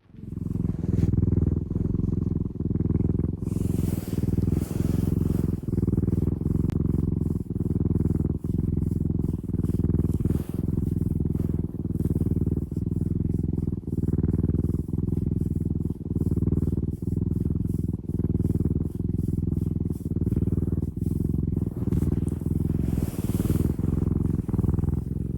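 Domestic cat purring loudly and steadily, close to the microphone, in an even rhythm of about one pulse every 0.7 seconds as it breathes in and out.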